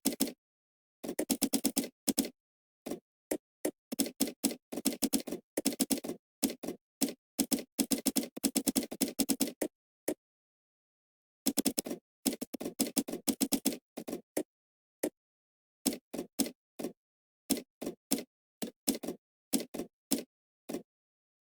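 Typing on a computer keyboard: dense runs of rapid keystrokes, a pause of about a second and a half near the middle, then slower, spaced-out key presses.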